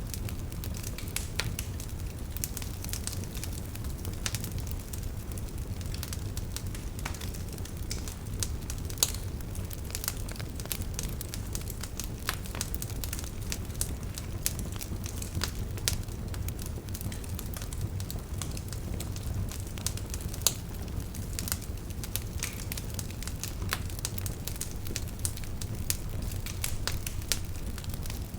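Wood campfire crackling steadily, with frequent sharp pops and snaps over a low rumble of the flames.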